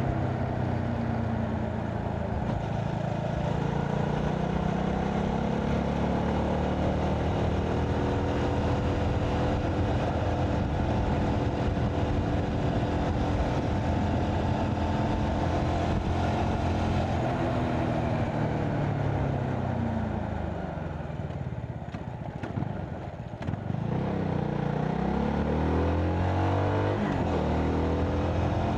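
CFMoto 250NK's single-cylinder engine under way, its pitch climbing and dropping back several times as it runs through the gears. About two-thirds of the way in it falls away as the bike slows, then picks up again near the end.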